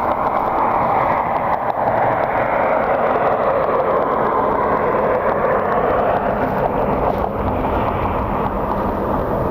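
Jet aircraft engines passing by: a loud, steady rushing noise whose pitch sinks a little around the middle.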